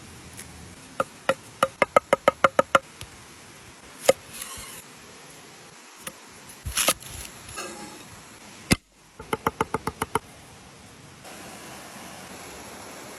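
A knife chopping on a cutting board: a quick run of about ten chops, a few single strikes and a short scrape, then another fast run of about eight chops.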